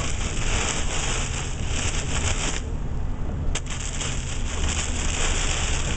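Heavy rain hitting a moving car, over the rumble of the vehicle on the road. The rain hiss briefly drops away for about a second near the middle, then a single sharp click.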